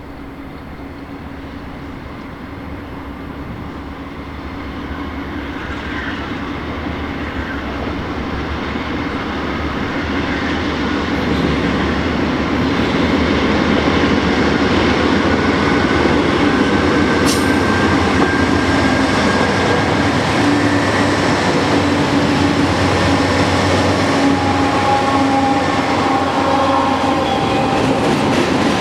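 BNSF double-stack intermodal freight train approaching and passing, its rumble and wheel clatter growing louder over the first half and then holding steady and loud. Thin wheel squeal rises over the rumble in the second half.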